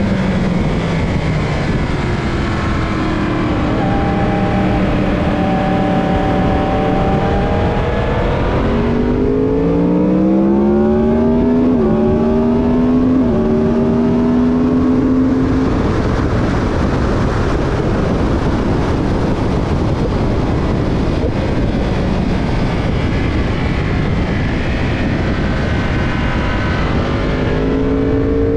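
Racing motorcycle engine heard onboard at full throttle, its pitch climbing and dropping back at each upshift several times along a straight, under heavy wind and road noise. For a stretch in the middle the wind rush drowns the engine note, then the pitch climbs again near the end.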